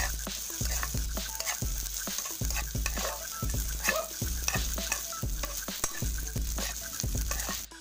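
Spatula stirring and scraping diced beef loaf and onion around a frying pan, the pieces sizzling in hot oil, with frequent short clicks of the spatula against the pan.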